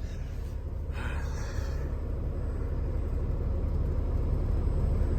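Volvo truck's engine running, a steady low rumble that grows slowly louder.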